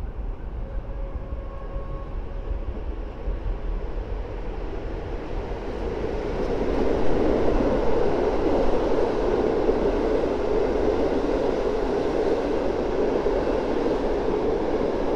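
PKP Intercity locomotive-hauled express train passing on the line below: a rumble of wheels on rails that builds as the train arrives, about six seconds in, and stays steady and loud as the coaches run past.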